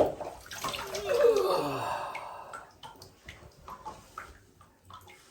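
A sharp knock, then a long sigh or groan of effort that falls in pitch as a person heaves a heavy tortoise up. Scattered light knocks and scrapes follow.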